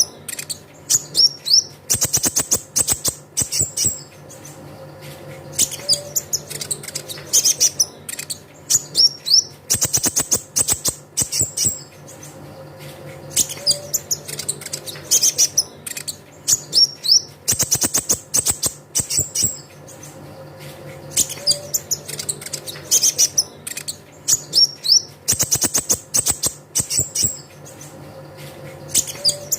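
Olive-backed sunbird (kolibri ninja) singing: rapid high chirps and fast rattling trills in a bird-keepers' lure recording. The same phrase sequence repeats about every eight seconds, as a loop.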